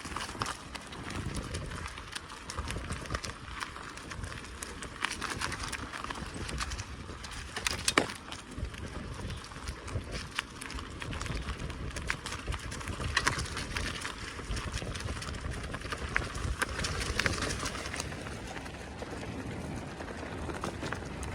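Bicycle riding along a forest track: steady tyre noise on the dirt path with frequent small knocks and rattles from the bike, a sharper knock about eight seconds in.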